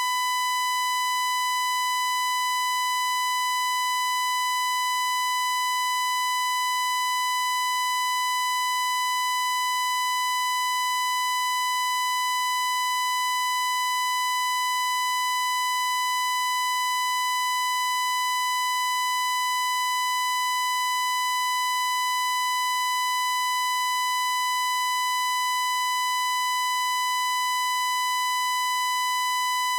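A single shrill electronic beep tone held at one unchanging pitch without a break, the kind of test tone or censor beep used as an annoying sound.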